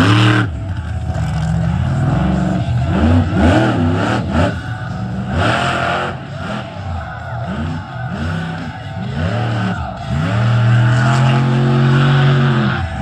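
Monster truck engine revving hard in repeated rising and falling surges, with a long held rev near the end.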